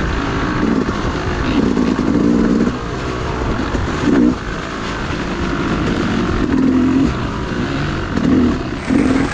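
Dirt bike engine being ridden hard, revving up and falling back again and again as the throttle is worked.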